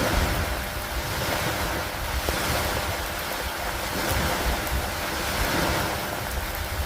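Steady rain with wind, the hiss swelling and easing every couple of seconds over a low rumble.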